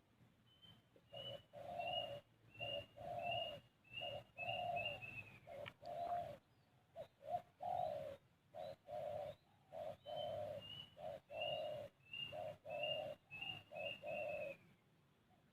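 Bird calls: a quick run of short, low hooting notes with a line of thin high notes above them, given in two phrases, the second starting about ten seconds in.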